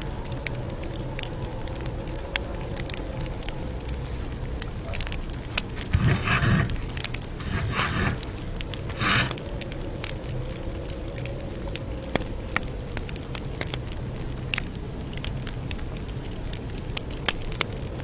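Campfire crackling, with scattered sharp pops over a steady low rumble. Three louder brushing or rustling sounds come about six, eight and nine seconds in.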